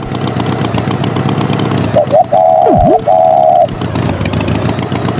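Animated tractor's engine sound effect running steadily. Over it, a looped cue repeats about every four seconds: two short chirps, two held horn-like tones, then a swoop that dips in pitch and rises again.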